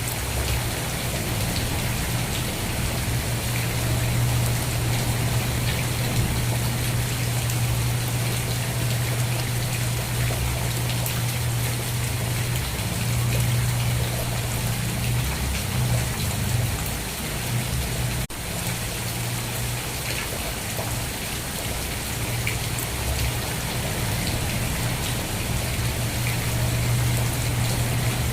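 Steady rain falling, an even hiss of drops with a constant low hum underneath. It dips for a moment about two-thirds of the way through.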